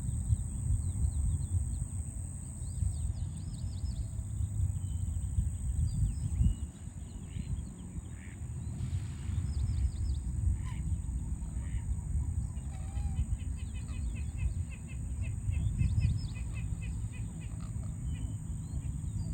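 Small birds chirping and twittering in quick, repeated notes over a steady low rumble of city traffic. A steady high-pitched whine runs underneath.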